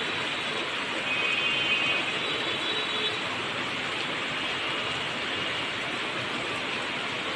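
Steady rainfall, an even hiss with no let-up, with a faint high tone briefly heard about a second in.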